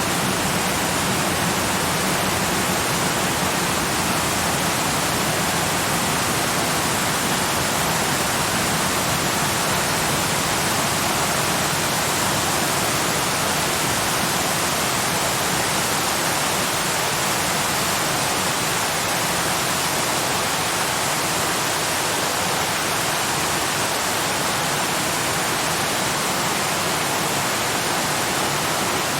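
Waterfall rushing, a steady, unbroken wash of falling water with no changes or separate events.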